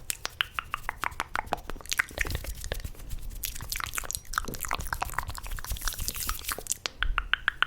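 ASMR mouth sounds close to the microphone: a rapid, irregular run of wet tongue clicks and lip smacks.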